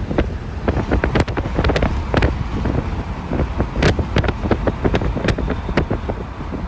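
Wind buffeting the microphone, with a steady low rumble and many scattered knocks and clicks.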